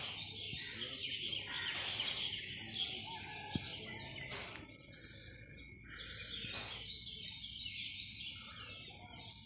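Many birds chirping together in a dense chorus of high calls, with one short click about three and a half seconds in.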